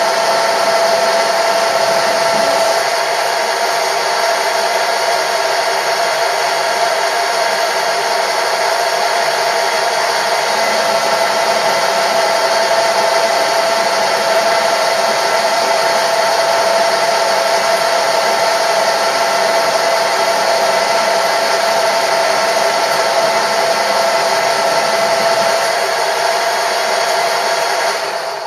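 A machine tool running steadily under its electric motor, a constant whine with several fixed tones, winding down near the end.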